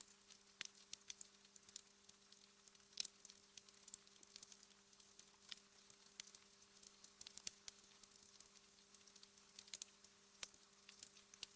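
Wood fire crackling in a fireplace: quiet, irregular sharp pops and snaps, with one louder pop about three seconds in, over a faint steady hum.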